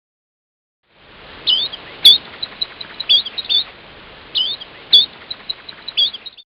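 A songbird singing the same short high phrase twice, about three seconds apart: a looping whistled note, a sharp note, a quick run of short pips, then a couple of closing notes. Steady hiss lies under it, starting and stopping abruptly.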